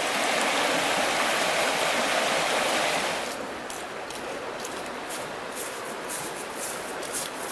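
Flowing river water rushing steadily for about three seconds, then suddenly quieter, with light scattered clicks and rustles over the softer water sound.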